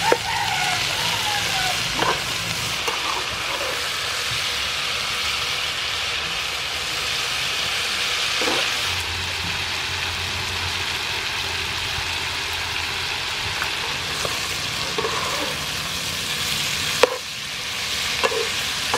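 Stir-fry of duck ovary and immature duck eggs sizzling steadily in a frying pan while a spatula stirs it, with a few brief knocks of the spatula against the pan.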